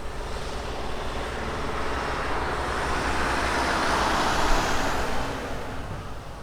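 An engine-driven vehicle passing by, its noise building to a peak about four seconds in and then fading away.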